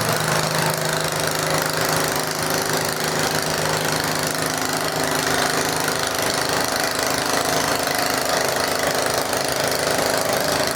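Garden tractor engine running steadily, its pitch shifting slightly about halfway through.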